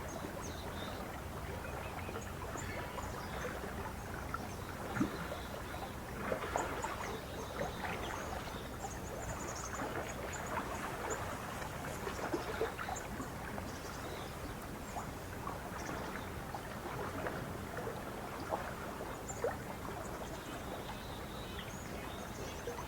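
Lake water lapping and splashing gently in small, irregular ripples, with faint, scattered bird chirps above it.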